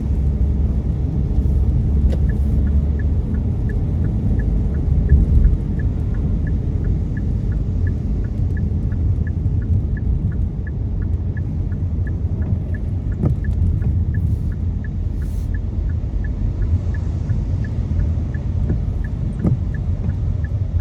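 Steady low rumble of a car driving on a wet road, heard inside the cabin. From about two seconds in until near the end, a turn-signal indicator ticks evenly, about twice a second.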